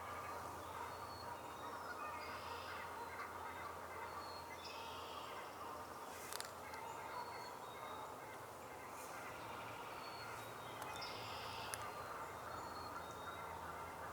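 Faint woodland birdsong: short calls from several birds come and go, with scattered high, thin notes and two sharp taps.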